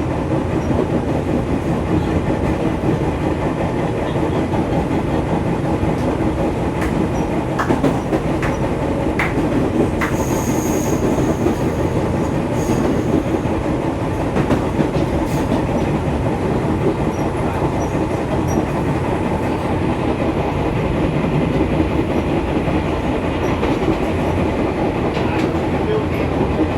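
Running sound heard inside the cabin of a Fujikyu 6000 series electric train, a converted JR 205 series with field-added excitation control: a steady rumble of wheels on rail with clickety-clack over rail joints and a few sharp clicks.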